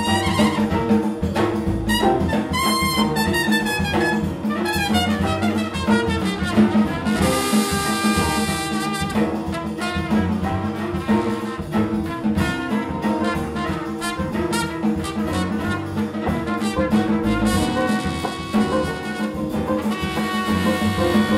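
Big band jazz ensemble playing, with a trumpet out front over trombones, saxophones and drum kit. The horn line moves in fast runs and sliding phrases, then holds long notes with vibrato.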